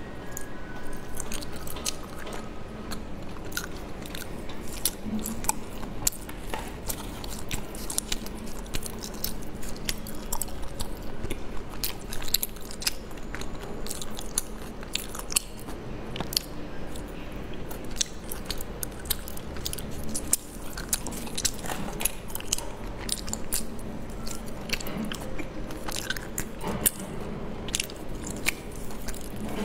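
Close-miked biting and chewing of soft mochi rice cakes, with a dense run of wet mouth clicks and smacks throughout.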